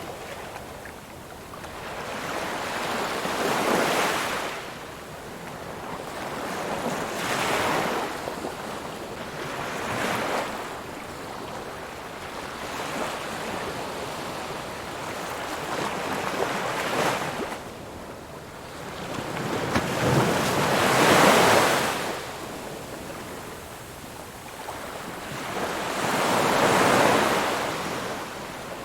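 Ocean surf: waves breaking and washing up the shore, a rushing hiss that swells and fades every few seconds, with the two biggest waves in the second half.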